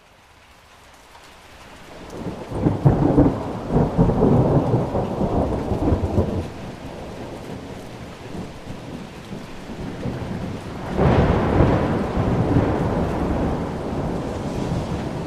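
Thunder rumbling over steady rain. It swells up from quiet over the first few seconds, rolls loudly for a few seconds, and a second long rumble breaks in about two-thirds of the way through.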